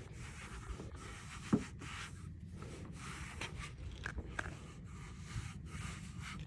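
A towel rubbing and wiping over a motorcycle's mirror and bodywork to dry it: irregular scraping and rubbing with a few small clicks, one sharper click about a second and a half in.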